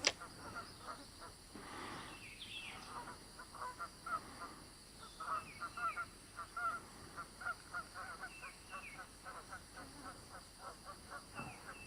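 Birds calling steadily, a run of many short repeated calls with a few high, down-slurred notes in pairs now and then. A sharp click comes right at the start.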